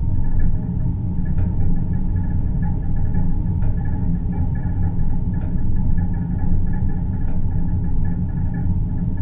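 Deep-space ambient soundscape: a steady low rumble and hum with fainter sustained higher tones above it. A faint tick recurs roughly every two seconds.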